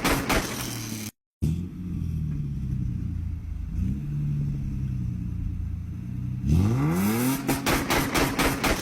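Car engine revved hard and held high, then running low and steady after a short break, then revved up sharply again about six and a half seconds in and held at high revs.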